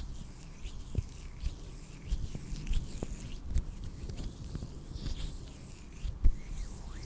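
Close-miked ASMR hand and mouth sounds: irregular soft clicks and pops with light swishing rustles between them, and one sharper click about six seconds in.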